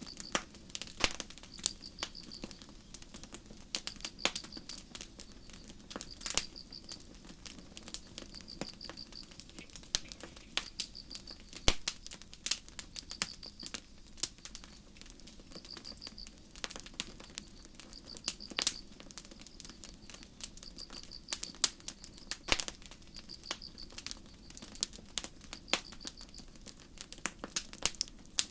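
Campfire crackling, with irregular sharp pops of burning wood, a few louder than the rest. Crickets chirp throughout in short pulsed trills about once every second or so.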